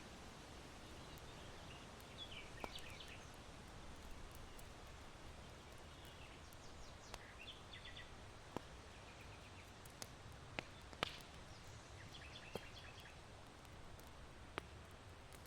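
Faint ambience of small birds chirping in short bursts of quick notes over a steady hiss of wind in bamboo, with sharp pops from charcoal crackling in an irori hearth, about eight of them scattered through.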